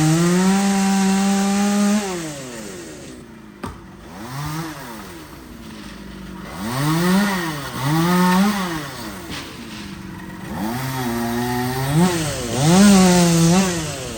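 Two-stroke chainsaw held at full throttle for about two seconds, then dropping back and being revved up and down in several short bursts.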